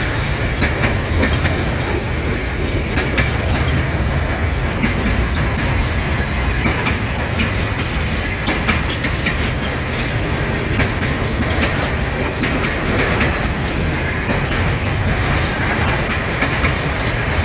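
Container freight train rolling past, its wagons' wheels clicking and clacking over the rail joints over a steady rumble.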